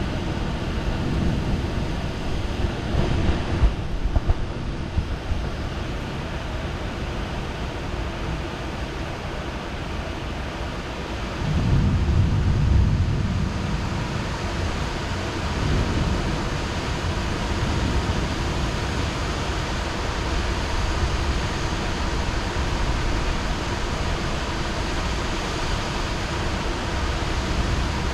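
Heavy rain falling steadily, with low rolls of thunder in the first few seconds and again about twelve seconds in, the second roll the loudest.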